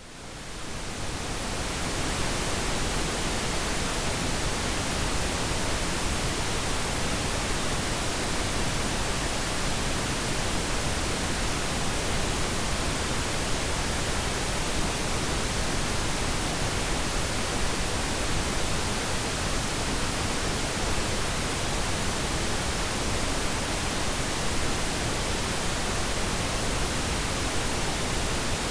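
Synthetic pink noise: a steady, even hiss with no tones or rhythm, fading in over the first couple of seconds.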